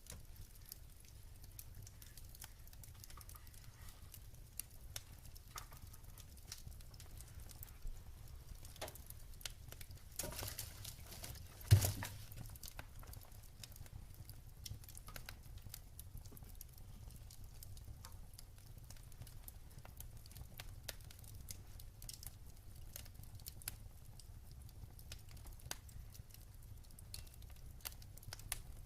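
Wood fire crackling in a fireplace, with a steady scatter of small ticks and pops and one sharp, loud pop about twelve seconds in.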